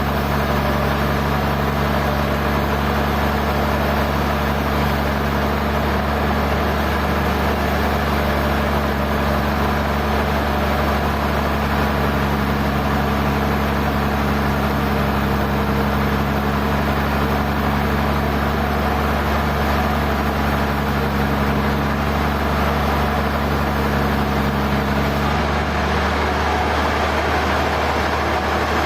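Sawmill machinery running steadily with a low hum and a wash of mechanical noise; part of the hum drops away near the end.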